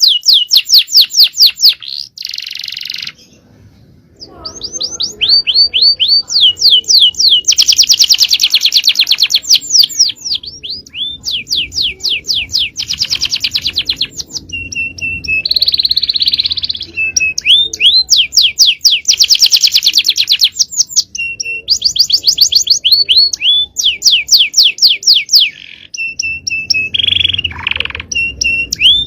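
Male domestic canary singing a long, fast song: runs of rapid, repeated high falling notes alternating with buzzy rolls. There is a short lull about three seconds in.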